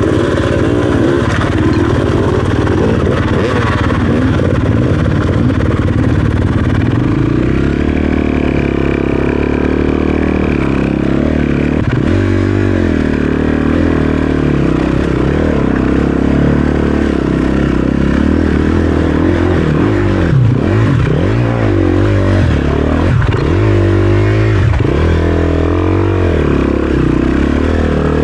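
Dirt bike engine running and revving up and down as the bike is ridden, the pitch rising and falling more widely from about seven seconds in.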